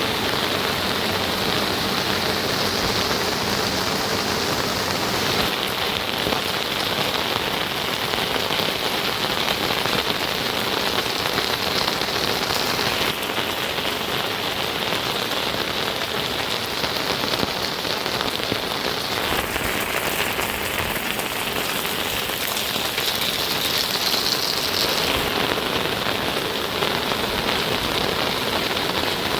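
Steady heavy rain falling, a dense even hiss. Its tone shifts abruptly every several seconds.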